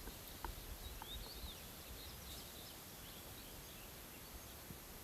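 Faint outdoor background hiss with a few short, high bird chirps in the first second and a half.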